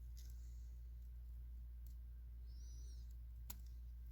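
A few faint, sharp clicks from the motor's winding wires being handled, over a steady low hum, with a brief high chirp about two and a half seconds in.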